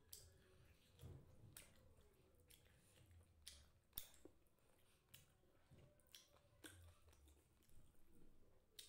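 Faint chewing of chicken eaten by hand, with short sharp clicks and smacks about once a second.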